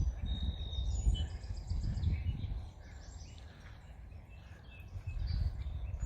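Wind buffeting the microphone in gusts, loudest in the first couple of seconds and again near the end. Small birds chirp and call throughout.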